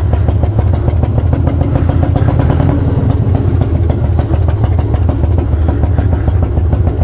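Harley-Davidson Twin Cam 88 V-twin, fitted with new Feuling 525 cams, hydraulic cam chain tensioners and a Dynatek ignition module, running steadily with an even pulsing beat.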